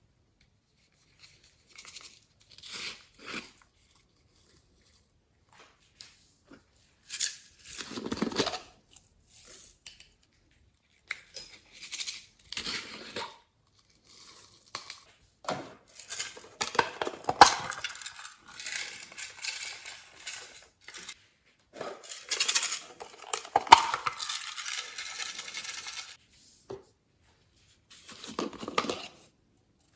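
Slime being squished, stretched and pressed by hand: irregular sticky crackles, clicks and tearing sounds in short bursts with silent pauses between, busiest in the middle and later part.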